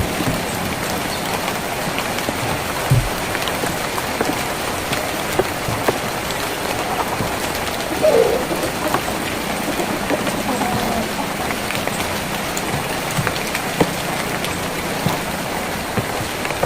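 Steady rain on a tin roof: a constant hiss of rain with many small drop ticks and a few louder single drops scattered through.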